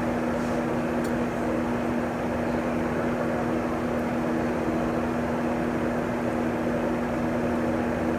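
Steady mechanical hum with two constant low tones over an even rushing noise, like an appliance or air conditioner running, with a few faint small clicks.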